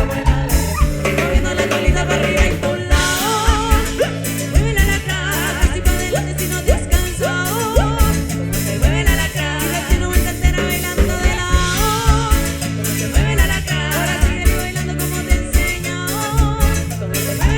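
Folk band playing with accordion, guitar, electric bass and drum kit, with a steady beat driven by kick drum and bass and a wavering melody line above.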